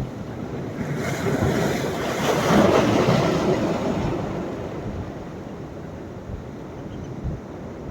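Sea waves on the shore: a wave swells and breaks about two and a half seconds in, then its wash slowly dies down into the steady hiss of surf.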